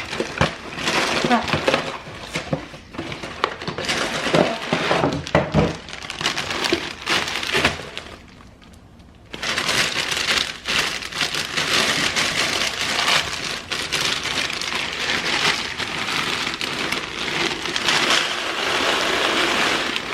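Plastic packaging crinkling and plastic storage containers clattering as they are unpacked and handled. After a short lull about nine seconds in, a steady rattling hiss of dry cereal being poured into a plastic container.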